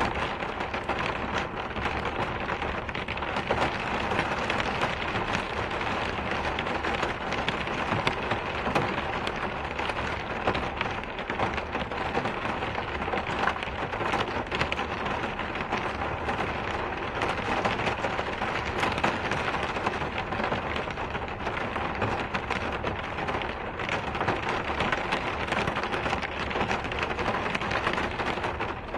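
Steady rain falling: an even, unbroken hiss of many small drops striking a surface.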